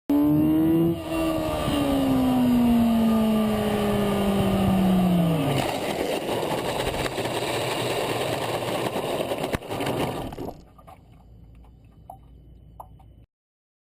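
A vehicle engine running hard, its pitch falling steadily over about five seconds, then giving way to a loud rushing noise. A single sharp knock comes about nine and a half seconds in, then the sound drops away to a faint rumble and stops.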